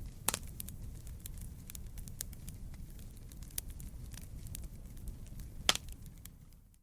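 Wood campfire burning: a steady low rumble of flames under constant small crackles, with two louder sharp pops, one just after the start and one near the end.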